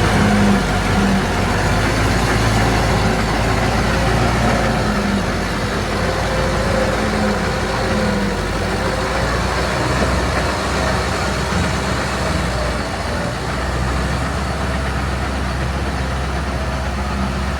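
Diesel engine of a heavy earthmoving machine running steadily, its note shifting a little partway through.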